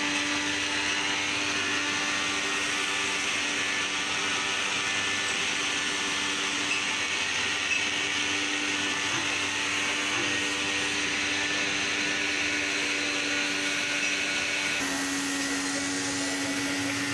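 An electric motor running steadily with a constant whine, dropping slightly in pitch near the end.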